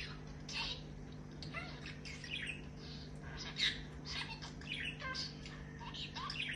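Pet budgerigar chattering: a continuous run of short chirps and warbling notes, with no clear words.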